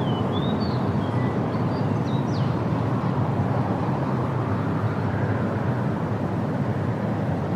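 Steady low rumbling outdoor noise, with a few faint, high bird chirps in the first two seconds or so.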